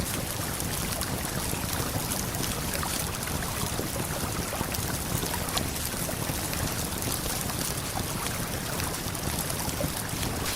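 Steady rush of flowing river water and a waterfall, with scattered brief crackles of a campfire through it.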